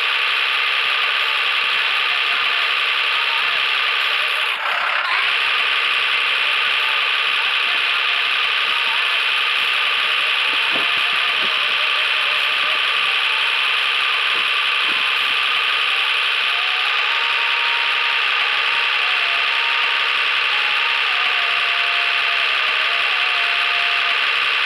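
Mahindra Arjun tractor engine running steadily and loudly, its pitch stepping up and down a little as the revs shift.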